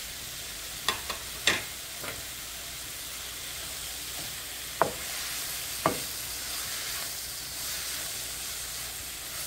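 Mushrooms, onions and sliced peppers sizzling steadily in butter in a frying pan as they are stirred. Several sharp clicks of utensils against the pan in the first two seconds, and two more around the middle.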